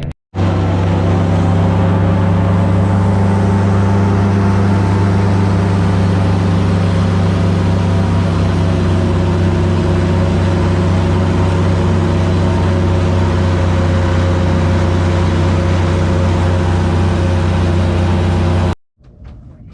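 Airboat engine and propeller running loud and steady at cruising speed, a constant low drone with a rushing noise over it. It cuts in just after the start and cuts off suddenly near the end.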